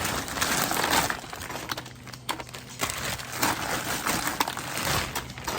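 Plastic packaging crinkling and rustling as food is handled and unpacked, with scattered small clicks and knocks.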